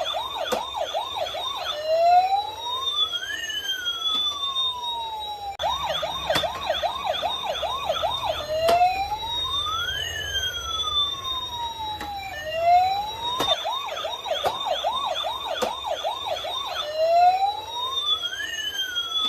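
A toy ambulance's electronic siren sounds in a repeating loop: about two seconds of fast yelping, roughly four quick rising sweeps a second, then one slow wail that rises and falls. The cycle repeats about every seven seconds, with a few sharp clicks along the way.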